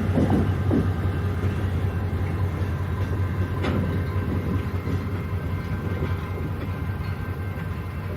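Train rolling past with a steady low rumble, its wheels clacking over rail joints at the start, then slowly fading away.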